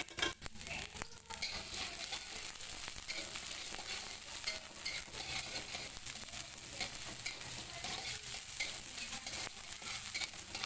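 Sliced shallots sizzling and crackling in hot oil in an aluminium wok, stirred with a spatula, with a few sharp clicks of the spatula against the pan in the first second.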